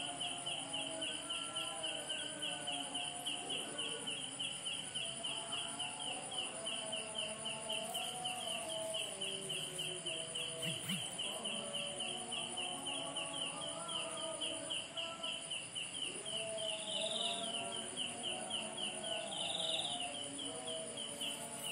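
Rural outdoor ambience of insects: a chirp repeating about three times a second over a steady high insect drone, with faint wavering animal calls lower down.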